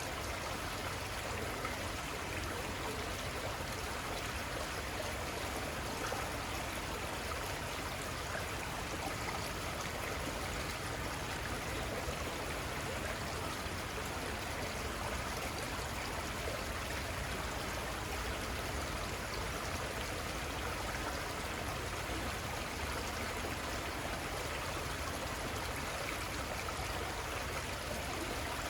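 Little Conestoga River flowing: a steady, unbroken rush of running water.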